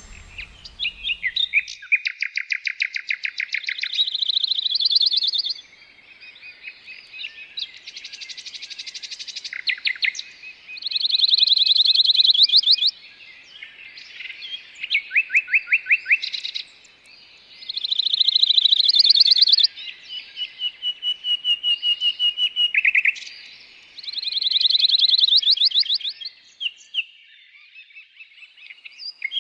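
Songbird singing: repeated phrases of rapid, chirping trills, each lasting a second or two, with short pauses between them.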